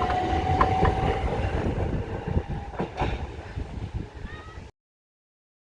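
Southern Class 377 Electrostar electric train moving off: a steady motor whine rising slightly in pitch, then a few sharp wheel clicks over rail joints as the sound fades away. The sound cuts off abruptly about four and a half seconds in.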